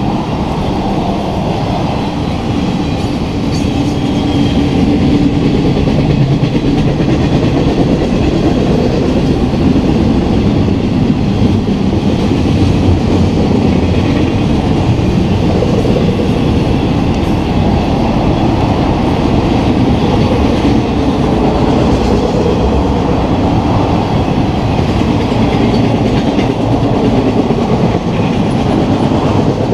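Intermodal freight train of double-stack container cars and trailer flatcars rolling past: a steady, loud rumble of steel wheels on rail.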